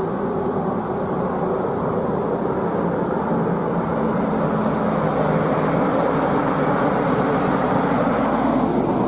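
Steady, continuous engine-like rumble of a running vehicle, with no break or change in level.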